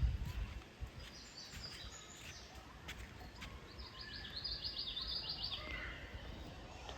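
A small bird singing outdoors: a few high chirps, then a fast trill of rapidly repeated high notes lasting about a second and a half, past the middle. A low thump at the very start.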